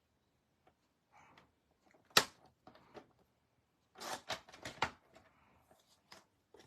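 Paper trimmer cutting cardstock: one sharp click about two seconds in, then a quick run of clicks and scraping about four seconds in as the blade is drawn through the card.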